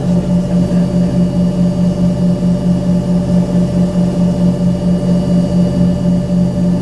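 Inside the cabin of an Embraer ERJ-135, its rear-mounted Rolls-Royce AE 3007 turbofans and the airflow make a steady drone: a low hum with a higher tone above it, pulsing in a fast, even beat.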